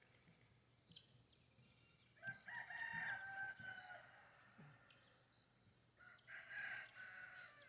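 Rooster crowing twice, faint: one long crow about two seconds in and another near the end.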